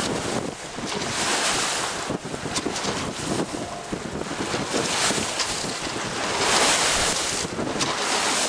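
Wind buffeting the microphone over water rushing and splashing along a sailboat's hull. The rush swells in gusts about a second in, around five seconds and near seven seconds.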